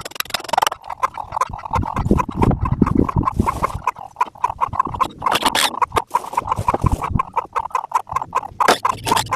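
Chickens clucking steadily, with many irregular sharp knocks and clatter over them.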